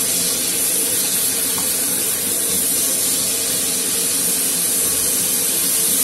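Chicken, cabbage and carrot stir-frying in a wok over high heat as a spatula stirs them: a steady sizzling hiss.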